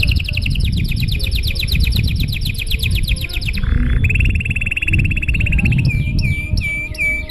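Domestic canary singing a long song: a fast trill of rapid repeated notes, changing at about four seconds into a steady rolled note, then a few slower down-sweeping notes near the end. A low rumble runs underneath.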